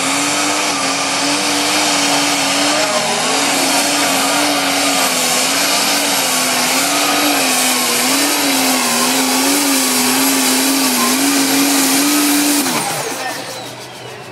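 Competition pulling tractor's engine running flat out under load, its pitch wavering up and down as it pulls. Near the end the throttle comes off and the engine winds down.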